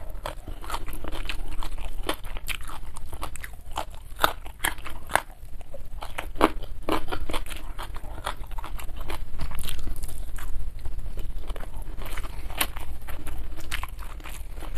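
Close-miked chewing and crunching of a mouthful of food, with irregular crisp clicks throughout.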